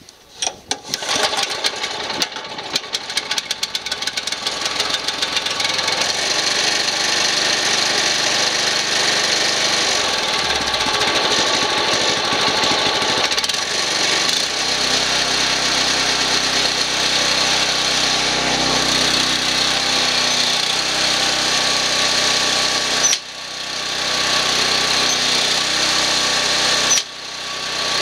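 Small engine of a screw-type cone log splitter starting and catching with a rapid patter of firing strokes, then running steadily. About halfway through its note settles into a steadier, lower hum, and the sound cuts out briefly twice near the end.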